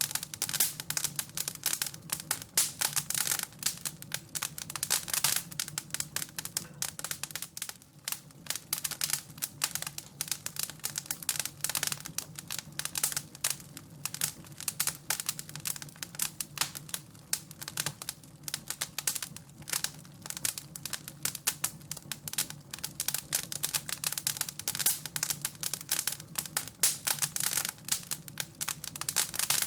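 Wood fire crackling and popping in a fireplace: a steady, dense run of irregular sharp snaps over a low, even hum.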